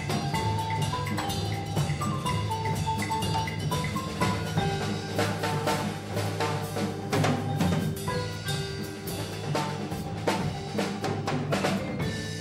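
Percussion ensemble playing: a marimba melody of quick notes over drums and rapid strikes. The piece ends right at the close, its last notes ringing away.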